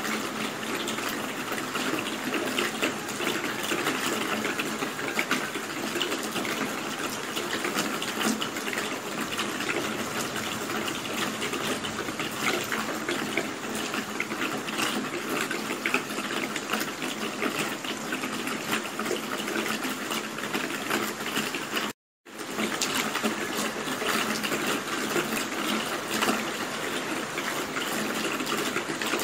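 Steady rain falling, a dense, even hiss of countless small drop impacts. It cuts out to silence for about half a second roughly three quarters of the way through, then resumes unchanged.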